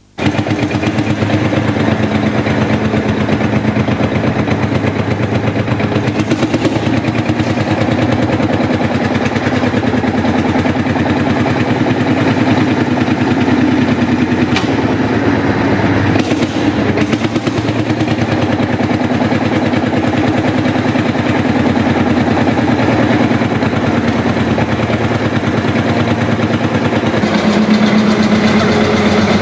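Marshall single-cylinder two-stroke diesel tractor engine running, its exhaust a steady rapid stream of sharp beats.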